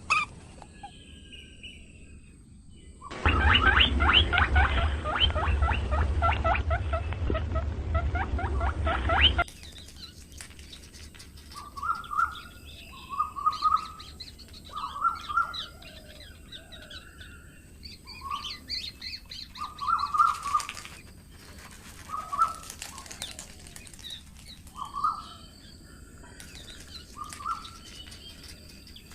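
Birds calling: a dense run of rapid chirps over a low rumble for about six seconds, then separate short calls repeated every second or two.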